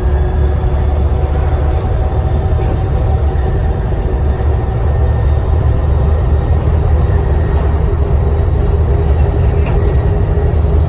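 Volvo B7TL bus's six-cylinder diesel engine running steadily under way, a deep drone with a steady whine over it from the turbocharger.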